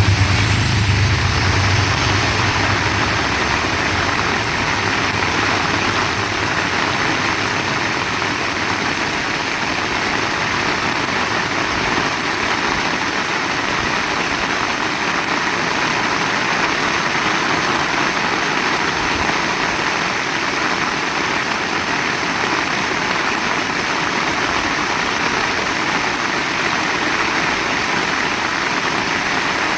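Heavy rain falling steadily, a dense even hiss, with a low engine-like hum fading away in the first few seconds.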